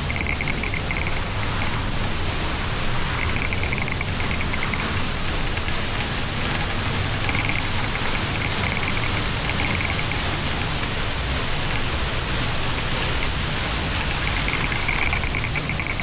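Waterfall pouring, a steady rushing noise, loud and unbroken. A rapid high trill comes and goes several times over it.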